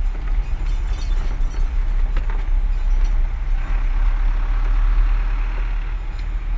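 Heavy truck running, a loud steady low rumble of engine and road noise, with a hiss that grows stronger about halfway through.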